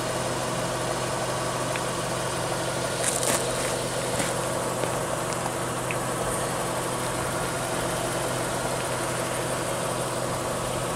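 A vehicle's engine idling with a steady hum. A few brief clicks come about three and four seconds in.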